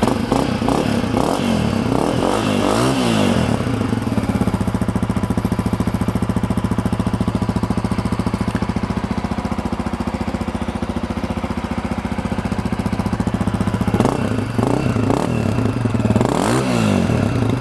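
2020 Honda CRF250F's single-cylinder four-stroke engine on its stock exhaust, blipped a few times in quick, snappy revs, then settling to a steady idle for several seconds before more quick revs near the end.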